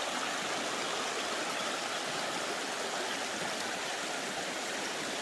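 Steady rushing of a running forest stream, water flowing over rocks.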